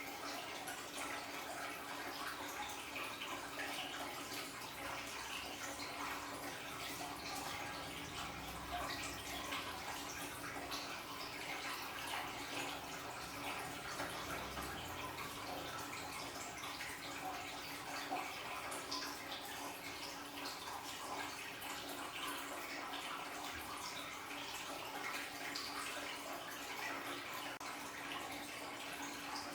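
Aquarium waterfall running: water steadily trickling and splashing with many small drips, over a steady low hum.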